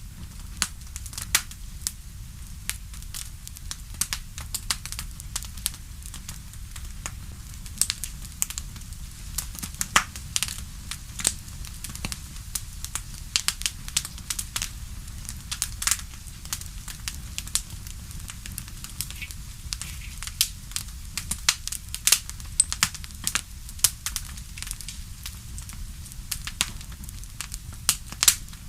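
Wood fire in a fireplace crackling: frequent sharp, irregular pops and snaps over a steady low rumble of the burning fire.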